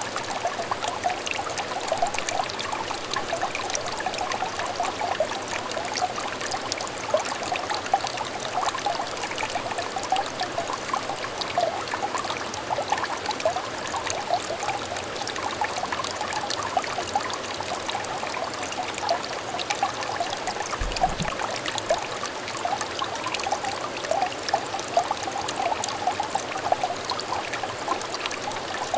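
Shallow stream water trickling and babbling over stones, a steady stream of small bubbling plinks.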